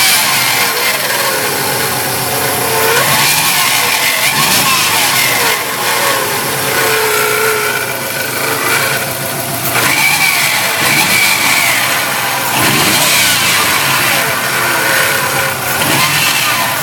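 2005 Subaru WRX's turbocharged flat-four engine running, with whining tones that rise and fall over the steady mechanical noise. These are the weird noises the car is recorded for; their cause is not known.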